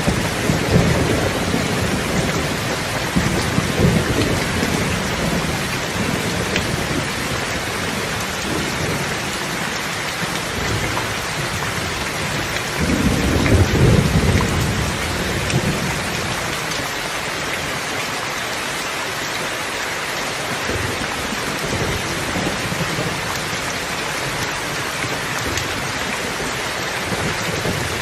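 Steady heavy rain with distant thunder rumbling, loudest about halfway through.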